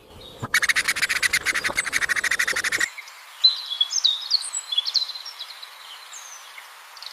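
Shrikes calling: a fast, even, harsh chatter of about a dozen notes a second for roughly two and a half seconds, then scattered thin, high chirps.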